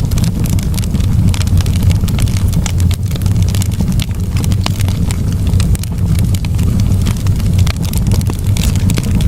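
Campfire crackling and popping in quick, irregular snaps over a steady low rumble.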